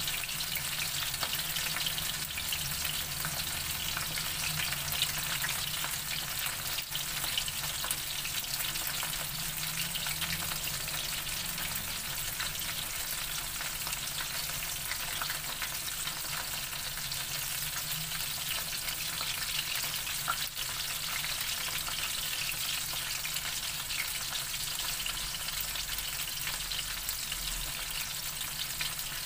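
Flour-coated chicken intestines deep-frying in hot oil: a steady, dense crackling sizzle with a few sharper pops.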